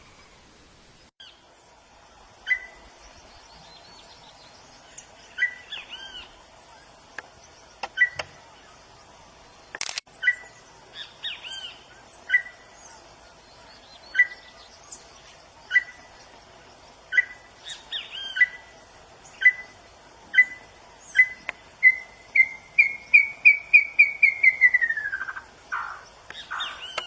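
A bird singing: short whistled notes about a second apart that speed up into a fast run, rising slightly and then falling away, with a faint steady hum underneath and a single sharp click partway through.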